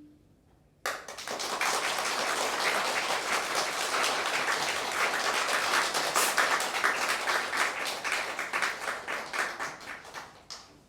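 Audience applauding at the end of a piece. The last note dies away at the start, the clapping starts suddenly about a second in, and it thins out and stops just before the end.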